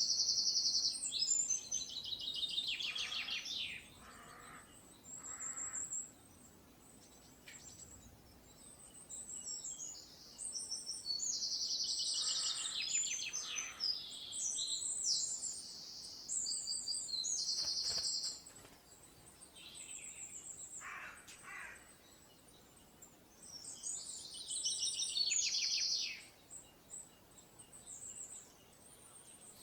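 Birdsong: high-pitched, complex phrases of rapid trills and notes, coming in three long bouts about ten seconds apart, with softer calls in between.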